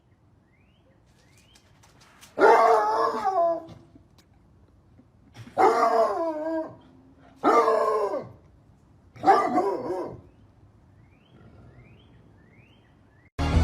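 A dog howling: four drawn-out calls, each about a second long, with a wavering pitch.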